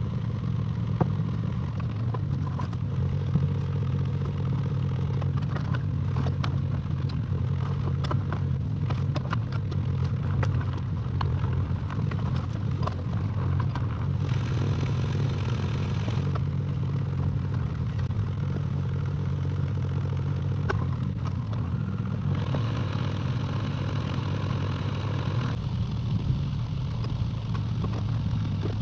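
Excavator engine running steadily, with scattered clattering and scraping as the machine works, and two stretches of hissing, one near the middle and one about two-thirds of the way through.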